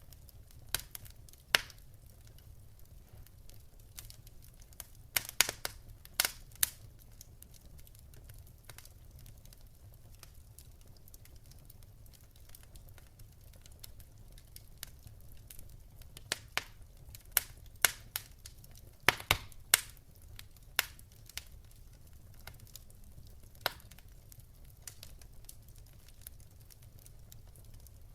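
Wood fire crackling: irregular sharp pops and snaps, more of them around the middle, over a low steady hum.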